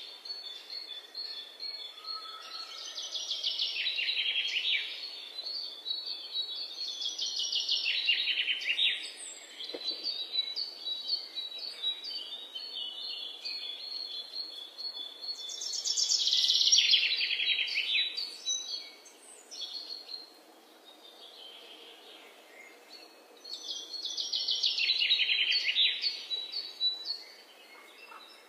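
Songbird singing: several long, rapid trilled phrases a few seconds apart, with a faint thin high tone between them.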